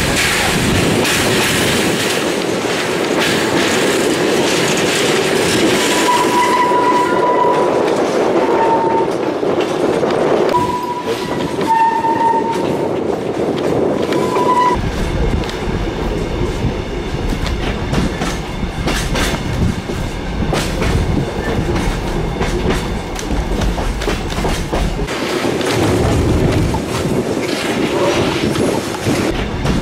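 Passenger train of the Kuranda Scenic Railway running along the track, heard from aboard: steady rolling and clatter of the carriages, with several short high-pitched squeals in the middle and a heavier low rumble from about halfway on.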